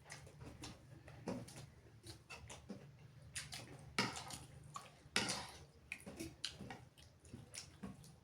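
Close-up eating sounds from a meal of chicken curry and rice: irregular wet chewing, mouth clicks and small smacks, with two louder clatters about four and five seconds in, over a steady low hum.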